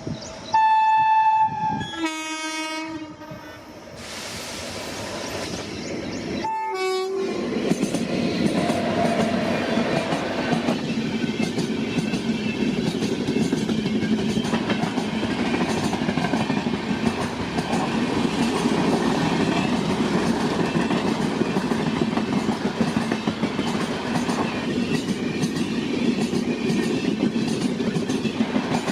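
An Indian Railways electric locomotive's horn sounds a long high note and then a lower note, with a short blast a few seconds later. Then an express train passes at speed, its coaches rumbling and clattering steadily over the rails.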